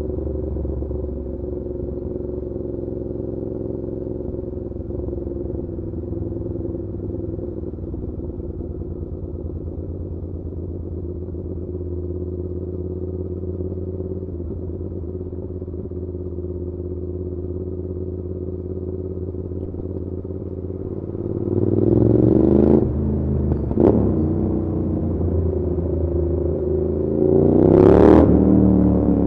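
Suzuki SV650's V-twin engine through an SC Project aftermarket exhaust, running at steady revs on the move. Near the end it revs up sharply twice, each time rising and then dropping back.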